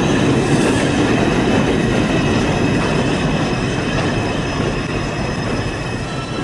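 New York City subway train running into the station, with a loud rumble of wheels on rails and several steady high whines over it. It gets a little quieter toward the end as the train slows to a stop.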